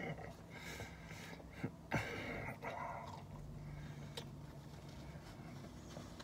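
A man chewing a mouthful of taco: quiet, wet mouth and chewing sounds with a couple of small clicks.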